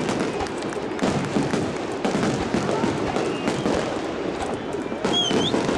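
Fireworks going off in a string of sharp bangs over a stadium crowd's noise, with a short high whistle about five seconds in.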